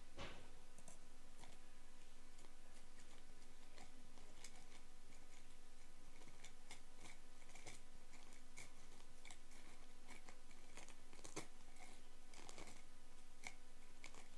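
Earwax being worked out of an ear canal with an ear pick: irregular soft crackles and clicks, with a sharper click right at the start.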